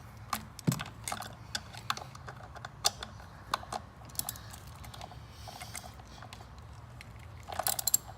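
Hand ratchet clicking in short, uneven strokes as a fastener is turned down in the engine bay, with a quick run of clicks near the end.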